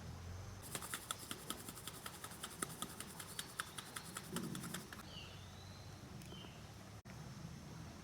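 A rapid, even run of clicks, about eight a second, lasting about four seconds, then stopping. A bird chirps a few times around the middle and just after the clicking ends, over a faint outdoor background.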